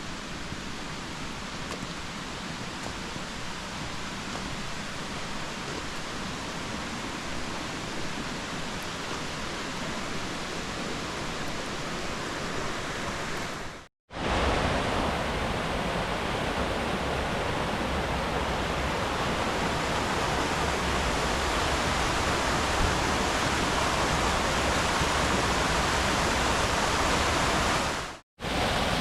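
Steady rushing of water in a mountain gorge: a stream and waterfalls. It drops out briefly twice, about halfway through and near the end, and is louder after the first break.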